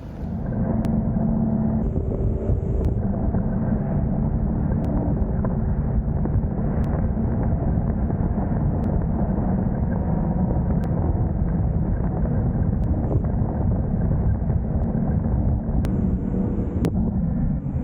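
Wind and road noise rushing over the microphone while riding a Zero DSR/X electric motorcycle at a steady speed on a wet road, with a faint steady low hum under it.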